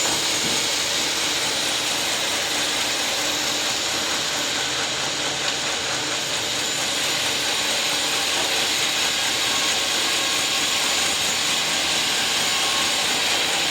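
Sawmill running steadily: a continuous mechanical whir with a strong high hiss as it saws a teak log.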